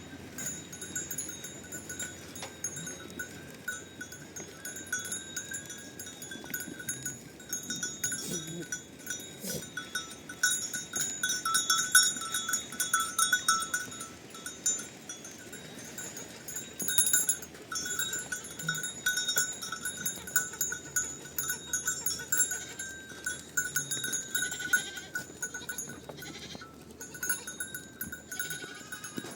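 Many small livestock bells jangling continuously, with dense clinking and ringing, as from a flock wearing bells as it moves or grazes.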